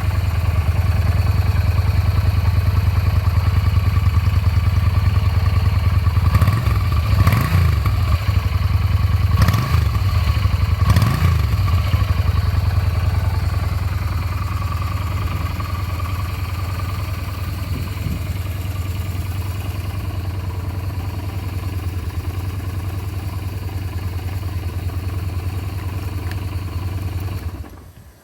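Yamaha SRV250S long-stroke 60-degree V-twin idling, blipped several times in quick succession and settling back to a steady idle, then switched off near the end.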